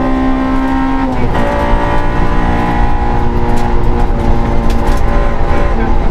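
Suzuki Swift rally car's engine heard from inside the cabin, running hard at high speed. About a second in, an upshift drops the engine note, then it pulls steadily in the higher gear.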